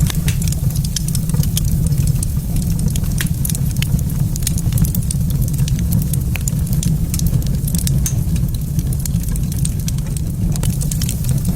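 Wood fire crackling in a fireplace: frequent sharp snaps and pops over a steady low rumble.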